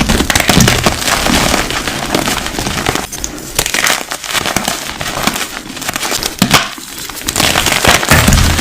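Crunchy objects being crushed: a dense, continuous crackling and crunching that eases off briefly twice.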